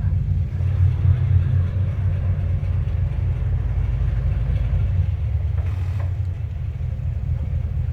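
A boat's engine running steadily, a low drone.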